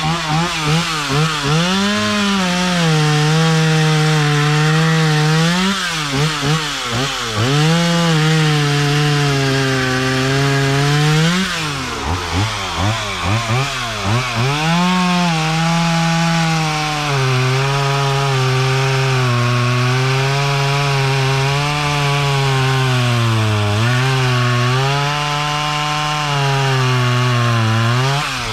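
Stihl MS170 two-stroke chainsaw cutting a log with a new semi-chisel Hipa chain, the engine held at high revs under load. Its pitch swings up and down several times, sagging in the wood and rising in between, with sharp drops around six and twelve seconds in and again at the very end.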